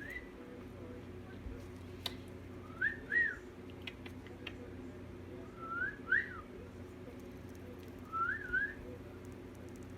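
Cockatiel whistling a short rising two-note phrase three times, a few seconds apart, over a steady low hum.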